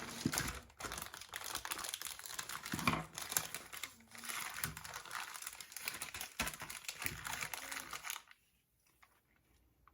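Plastic bag crinkling and rustling as model-kit parts are handled, with many small clicks and taps; it stops about eight seconds in.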